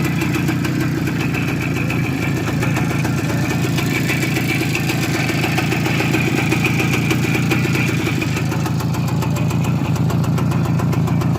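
Motorcycle engine idling steadily, with a fast, even firing pulse.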